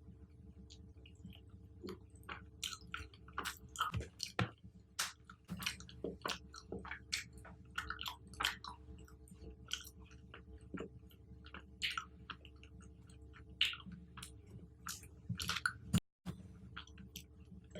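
Close-miked chewing and biting of fruit: irregular clicks and smacks, many a second, over a steady low hum. The sound drops out briefly near the end.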